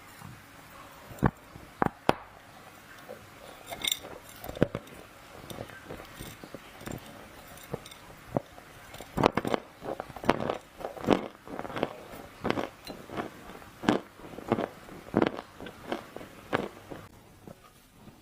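Dry clay crunching and cracking in short, crisp snaps, sparse at first and then coming about one or two a second from halfway through.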